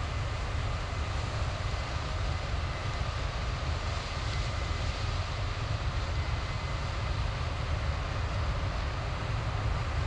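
Combine harvester running steadily while harvesting corn: a constant low engine drone under an even mechanical rush.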